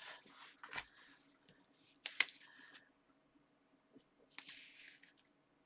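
Paper and card layers being picked up and handled: a few light taps, a sharp click about two seconds in, and a short rustle past the four-second mark, over a faint steady hum.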